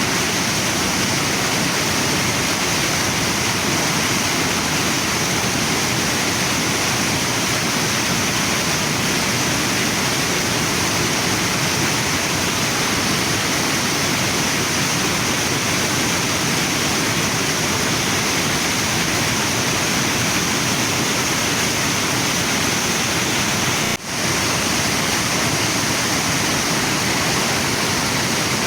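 Waterfall and river water rushing steadily, a dense even roar with no breaks except one momentary dip in level about four-fifths of the way through.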